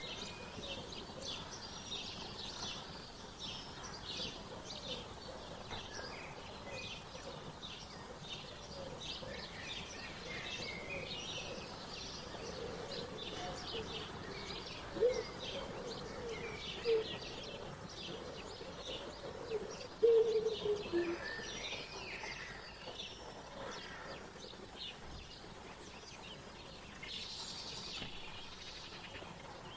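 Many small birds chirping and twittering in quick, short notes throughout, with a run of lower, short calls that grow loudest around the middle.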